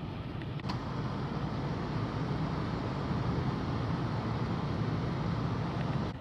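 Vehicle on the move: a steady low rumble of engine and road noise, with a single sharp click a little under a second in.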